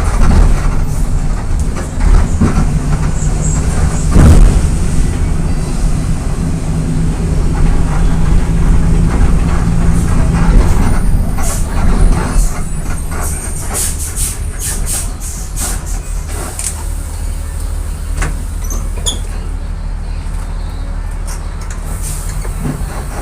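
VolksBus 17.230 EOD diesel bus with a 5-speed gearbox, engine running steadily under way. About halfway through the engine gets a little quieter and the body sets up a run of sharp rattles and clicks.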